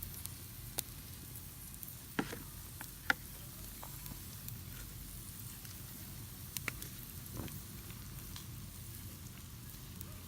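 Food sizzling on a barbecue grill: a steady hiss with scattered sharp pops and crackles.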